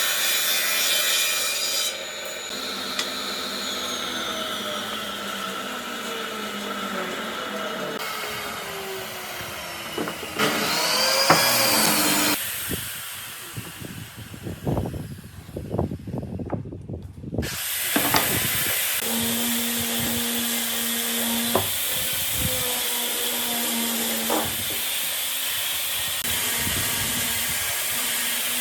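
Woodworking tools cutting and shaping wood, in several short stretches that change abruptly every few seconds: steady power-tool noise, then a stretch of irregular knocks and scraping, then steady tool noise again.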